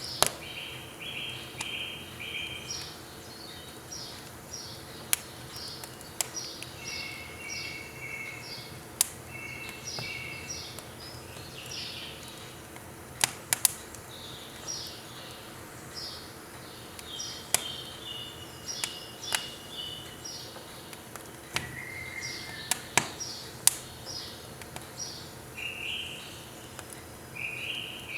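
Small birds chirping in quick runs of short repeated notes, with sharp pops of firewood crackling in a wood stove every few seconds.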